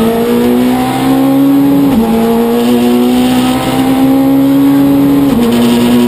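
Citroen C2 rally car's four-cylinder engine heard from inside the cabin, pulling hard under acceleration. The engine note climbs steadily and drops sharply with an upshift about two seconds in and again about five seconds in.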